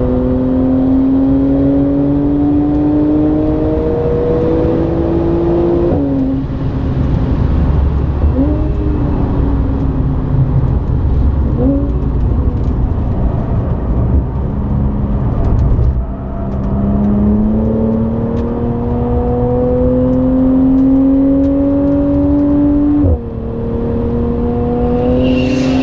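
Audi B8 S4's supercharged V6, tuned and breathing through a Milltek non-resonated exhaust, heard from inside the cabin. It pulls hard with the revs climbing, then drops sharply about six seconds in. Short rising blips follow through the corner, then the engine climbs steadily again with another sharp drop a few seconds before the end, and a brief high squeal comes near the end.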